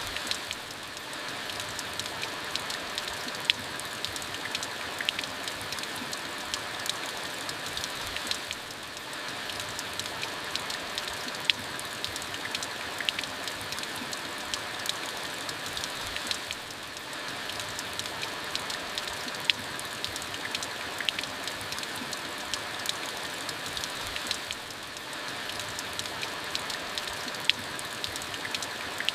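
Steady rain falling, an even hiss full of small drop ticks, with a sharper louder drip about every eight seconds.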